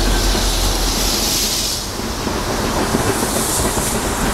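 Train running past on the track: a steady heavy rumble under a hiss, with wind buffeting the microphone.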